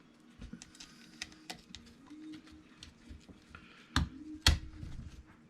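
Small plastic and metal parts of a Traxxas E-Revo 2.0 RC truck's suspension clicking and tapping as they are handled and fitted together by hand, with two sharper knocks about four seconds in, half a second apart.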